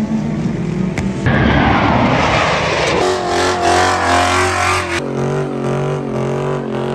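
Spliced clips of car engine sounds: racing cars passing, then engines revving hard during tire-smoking burnouts. The sound changes abruptly every second or two.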